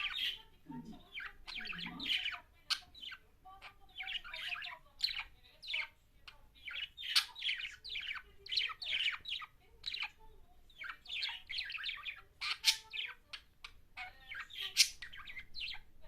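A budgerigar warbling and chattering: rapid runs of short chirps and clicks in bursts, broken by brief pauses, with a couple of sharper, louder squawk-like notes near the end.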